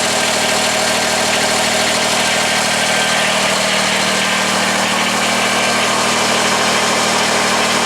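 Steady mechanical running noise, a motor or engine humming evenly at a constant speed over a broad, even rush.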